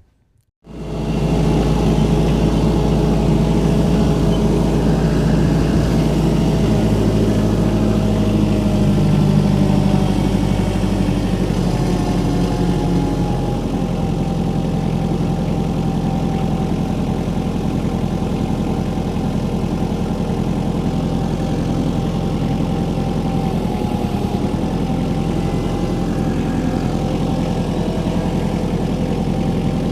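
An engine starts being heard abruptly about a second in and runs steadily at a low idle-like speed, its pitch shifting slightly a few times.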